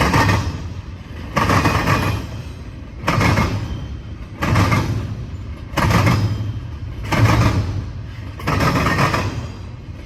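Intermodal freight train rolling past, its wheels clattering over the track in a regular rhythm: a loud clatter about every second and a half as each car's trucks pass, fading between hits.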